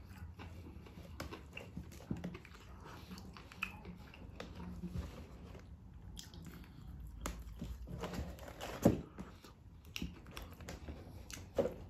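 Close-up chewing and lip-smacking of someone eating KFC fried chicken, with small wet clicks as the pieces are pulled apart by hand, and one sharper click about nine seconds in.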